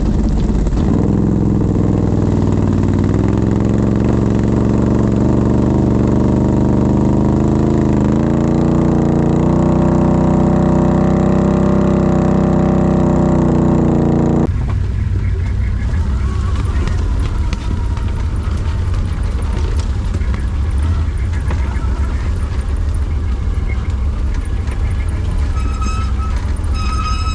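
ATV engine running under load, its pitch rising in steps, then after an abrupt break a lower, rougher rumble with wind noise.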